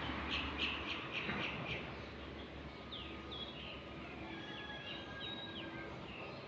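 Birds chirping in the background: a quick run of about six short chirps in the first two seconds, then thinner high whistled notes with short up-and-down glides.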